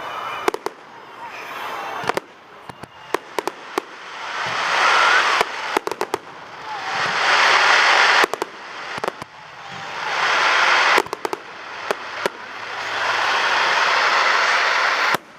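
A fireworks display going off: many sharp bangs and crackles, with several long swells of hissing noise that build up over a couple of seconds and then stop abruptly.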